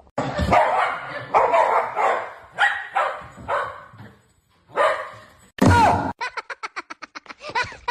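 Dog barking repeatedly, about seven barks roughly half a second apart, then a louder bark with a falling pitch about six seconds in, followed by a quick run of short pulses.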